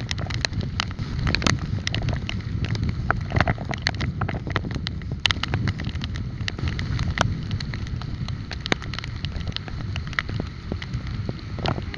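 Wind buffeting the microphone of a moving bike ride, a steady low rumble, with many irregular sharp clicks and rattles from riding over the road surface.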